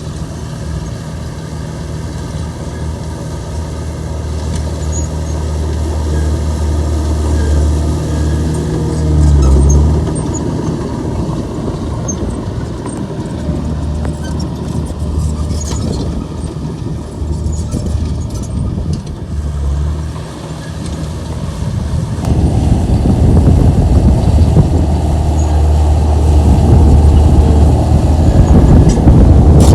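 Komatsu bulldozer's diesel engine running steadily under working load, with a brief surge about a third of the way in. Near the end it works harder, the sound growing louder and rougher.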